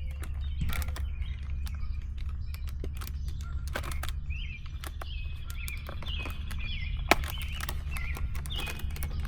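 Songbirds chirping over and over in short, quick notes, over a steady low hum, with scattered small clicks and rustles. One sharp click comes about seven seconds in.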